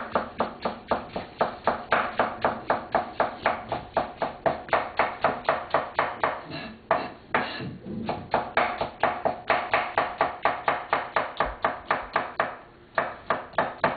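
A knife chopping scallions on a cutting board in quick, even strokes, about five a second. The chopping pauses briefly twice.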